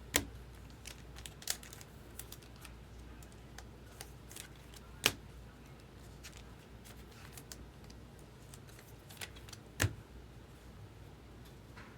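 Scattered light clicks and taps of chrome trading cards being handled and shuffled through, with three sharper clicks: at the start, about five seconds in and just before ten seconds.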